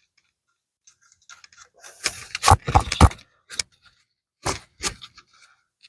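Handling noise as the parts of a small wooden nesting feeder are shifted and rearranged: a cluster of rattling knocks about two seconds in, then a few single clicks.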